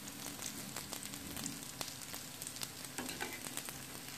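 Mutton chapli kababs sizzling as they shallow-fry in oil in a nonstick frying pan over low heat: a steady hiss with many small crackles and pops.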